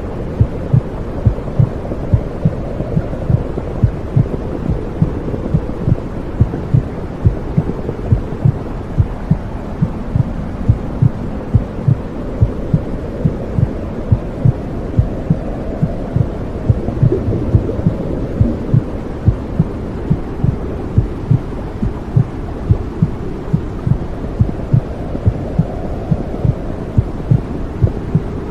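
Womb sound for soothing a baby: a muffled, regular heartbeat thumping under a steady low whooshing noise.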